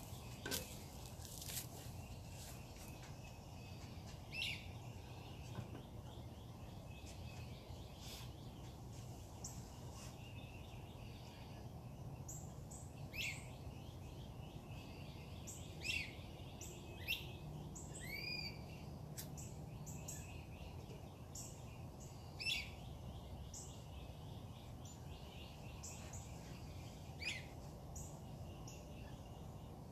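Several birds calling in the early morning: short, sharp calls every few seconds over a faint chorus of high chirps, with a steady low hum of background noise underneath.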